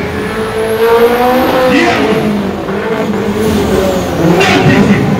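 Car engine revving hard, its pitch rising and falling repeatedly.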